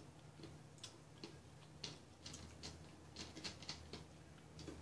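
Faint eating sounds: soft, irregular clicks of chewing and handling a chicken wing, over a low steady hum.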